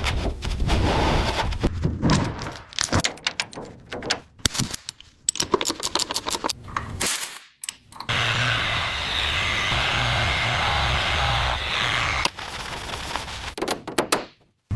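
A rapid, uneven string of sharp bangs and knocks with abrupt breaks, then from about eight seconds a steady mechanical running noise with a low hum that cuts off just before the end.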